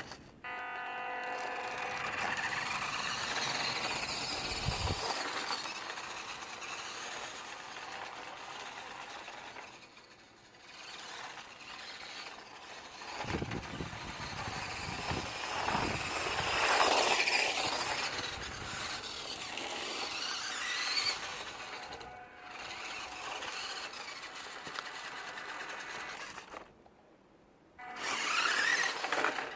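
WPL D12 RC drift truck's small electric motor and gearbox whining, its pitch rising and falling as the throttle is worked, with tyre scrub mixed in. The sound breaks off briefly a few times.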